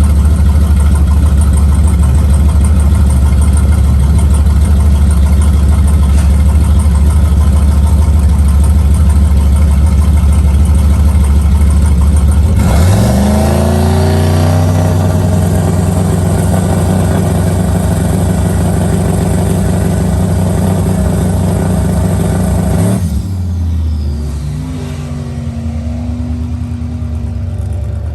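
Race truck engine running loud and steady. About twelve seconds in it revs up sharply, holds a higher note for about ten seconds, then drops back and gets a little quieter near the end.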